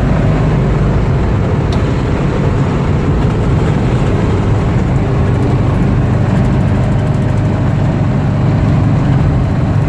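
1956 Ford Thunderbird's 312 V8 cruising at highway speed, with wind and road noise, heard from the driver's seat as a steady, loud drone.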